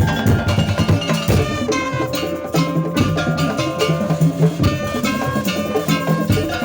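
Madurese tong-tong music played live: a percussion ensemble of drums and wooden slit drums (kentongan) beating a busy, even rhythm, with pitched melodic notes held over it.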